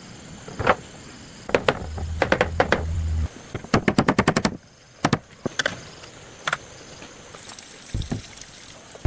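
Sharp knocks and strikes of building work, some single and some in quick runs, with a rapid rattle of about ten strikes a second around the middle.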